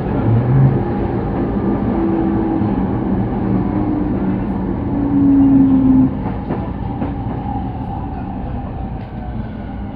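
Sotetsu Line electric train running, heard from inside the car: a steady rumble with a motor whine that slowly falls in pitch, then eases off about six seconds in, with a few light clicks after.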